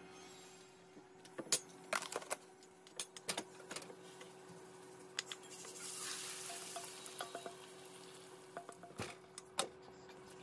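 A silicone spatula stirs and scrapes egg batter in a stainless steel bowl with scattered clicks. About six seconds in, the batter pours into a hot oiled frying pan and sizzles, followed by a few clinks as the glass lid goes on.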